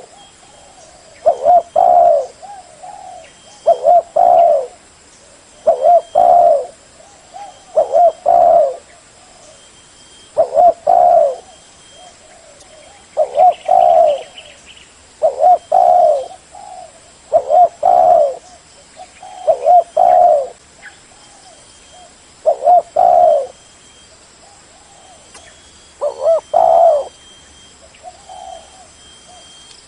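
Spotted dove cooing: a short phrase of a few low notes, repeated every two seconds or so, about a dozen times.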